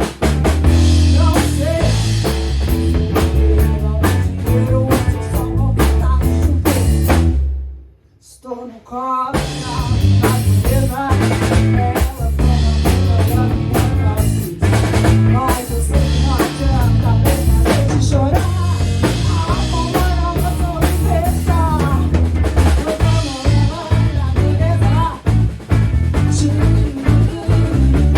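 A band playing a rock song, led by a drum kit with snare and bass drum over a bass line. About eight seconds in, the music stops for a moment, then the band comes back in.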